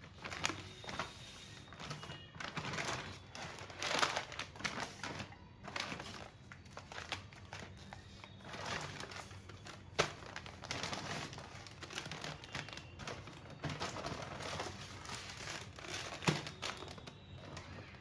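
Plastic grocery packaging crinkling and rustling as it is handled and opened, with scattered clicks and a few sharper knocks, one about ten seconds in and one near the end.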